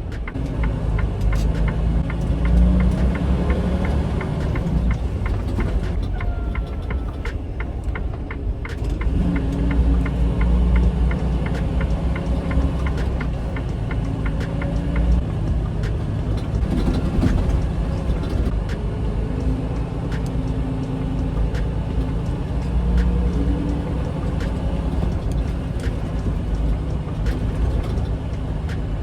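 Semi truck's diesel engine heard from inside the cab while driving, its pitch rising and falling as it pulls through the gears, with light clicks and rattles over the rumble.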